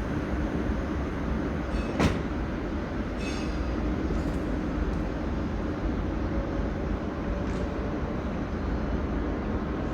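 A train running on the rails, a steady low noise with a faint steady tone, and one sharp click about two seconds in.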